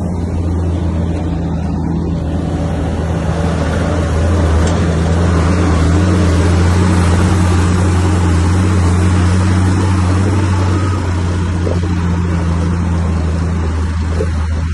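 Bulldozer's diesel engine running steadily with a deep hum, growing louder and rougher from about two seconds in as it works, then easing near the end.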